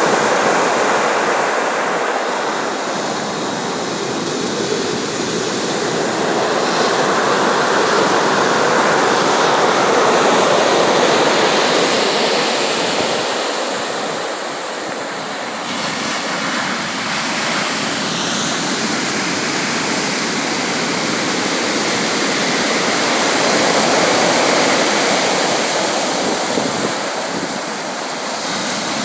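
Sea waves breaking and washing ashore in a continuous surf, swelling and easing every several seconds.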